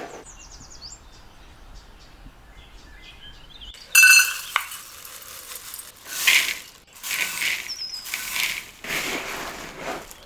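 A single sharp, ringing clink of a hard object, glass or metal, about four seconds in. It is followed by several short rushes of noise.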